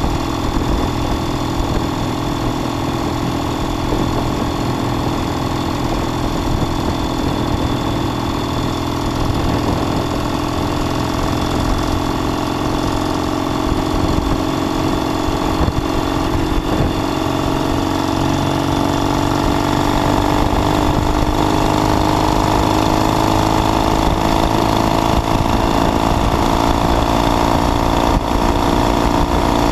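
1969 Triumph T120 Bonneville's 650 cc parallel-twin engine running under way, heard from the rider's seat. The note holds steady, then rises gradually in pitch and loudness through the second half as the bike picks up speed.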